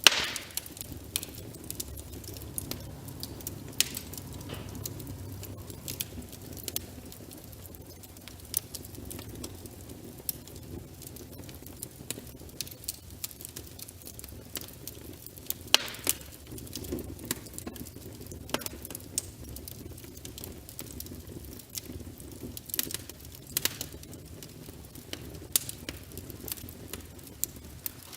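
Wood fire burning in a fireplace: a low steady rush of flames with irregular sharp crackles and pops from the burning logs, the loudest pop right at the start.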